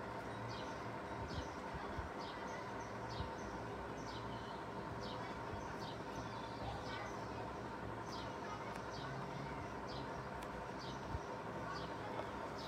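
A bird calling with short, high chirps repeated evenly, a little under two a second, over a steady background hum.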